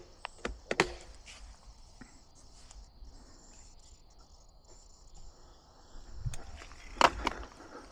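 A few sharp clicks and knocks in the first second and again near the end, over a faint, steady, high chirring of insects.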